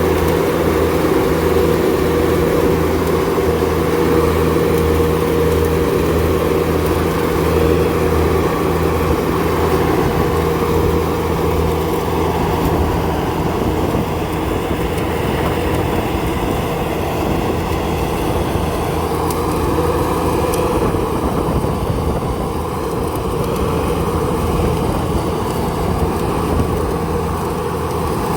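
Kubota DC70 combine harvester's diesel engine running steadily at full power.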